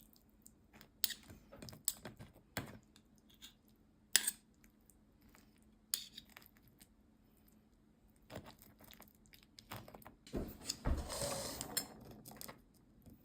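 Scattered light clinks and taps of cutlery and dishes at a meal table, with a longer scraping rustle near the end.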